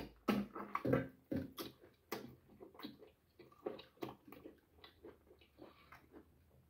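Close-up eating sounds: a man biting and chewing meat off a boiled goat head, an irregular run of wet clicks and smacks, louder in the first second or so and then softer.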